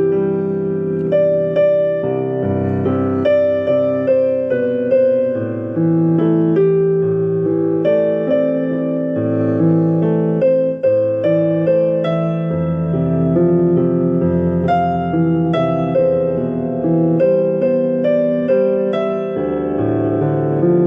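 Piano music: a melody of separate struck notes over sustained chords, with no singing.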